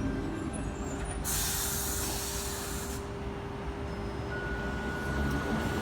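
Sydney Trains Tangara electric train standing at the platform, its air system letting out a loud hiss about a second in that lasts some two seconds, over a steady hum. A thin steady tone starts near the end.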